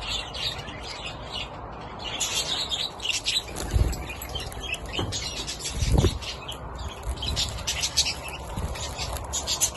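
Flock of budgerigars chattering and chirping continuously, with two dull thumps about four and six seconds in.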